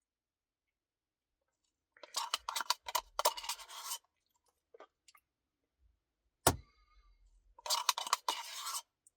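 Eating noises from a cookie dough Blizzard: two short crackly bursts of chewing and scraping, about two seconds in and near the end, with one sharp knock between them.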